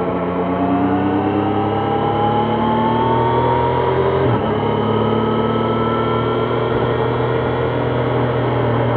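Triumph Trident 660's inline three-cylinder engine pulling under acceleration, its pitch climbing steadily, then an upshift about four seconds in, after which the revs build again more gently.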